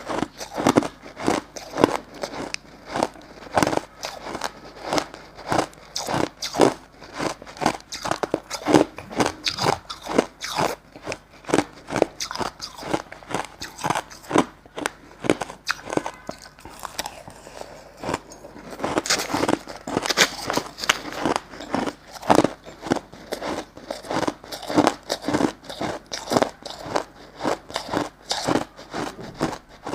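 Crushed white ice being bitten and chewed: a crunchy run of crisp crunches, about two to three a second, with a lighter stretch in the middle.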